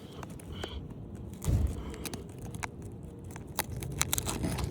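Metal roof snake prying under an asphalt shingle to break its seal: scattered small clicks, crackles and scraping. There is a brief low rumble about a second and a half in.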